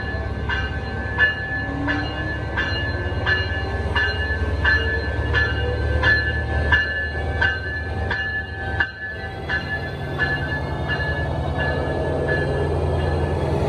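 Train rumbling steadily, with a bell dinging about one and a half times a second that stops about nine seconds in, and a whine rising in pitch over the first several seconds.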